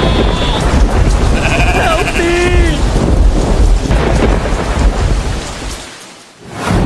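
Thunderstorm: loud, continuous rumbling thunder with rain, with bleating twice in the first three seconds. It fades out near the end.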